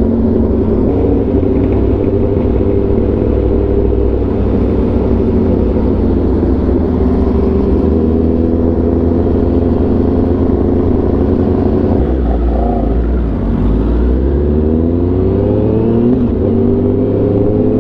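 Sport bike's inline-four engine running on the move, heard from the rider's own bike, with its pitch gliding up in the last few seconds as it accelerates.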